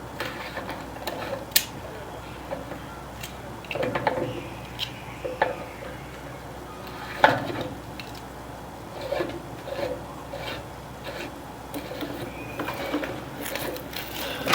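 Scattered light knocks, clicks and scrapes, with a sharper knock about seven seconds in.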